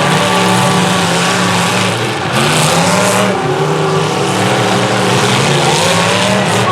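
Engines of several large trucks racing together on a figure-8 track, their overlapping engine notes rising and falling as they accelerate and slow, with a brief lull about two seconds in.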